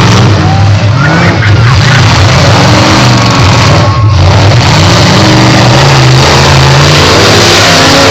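Demolition derby trucks' engines revving hard, loud, the pitch rising and falling again and again as they accelerate and back off.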